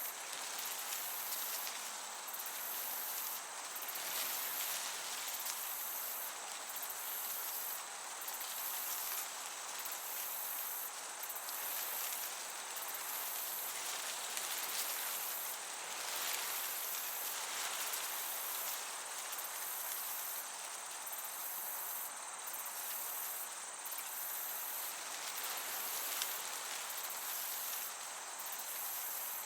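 Field crickets chirping steadily in a summer meadow, their high trill breaking off briefly about every second and a half, over the soft even hiss of a gentle breeze.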